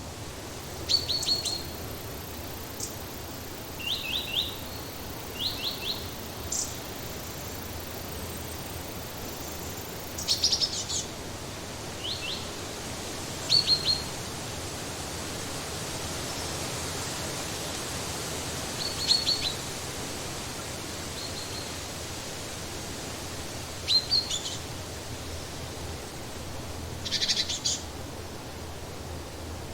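Birds chirping in short bursts of three or four quick high notes, repeated every few seconds, over a steady background hiss.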